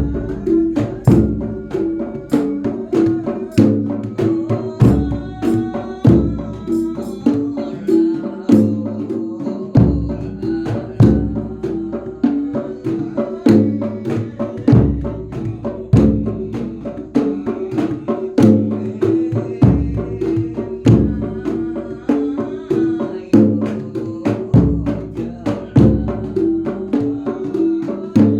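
Javanese percussion music: a jedor bass drum beaten in a steady pulse, a deep thump about every second and a quarter, with quicker sharp drum strikes in between and some ringing pitched notes above.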